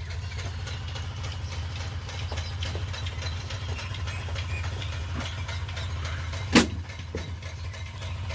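Diesel engine running at idle with a steady, fast low beat. A single sharp knock sounds about six and a half seconds in.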